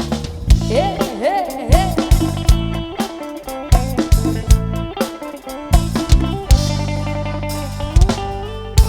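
Live band playing an instrumental passage: a lead guitar line with bent notes over a drum kit.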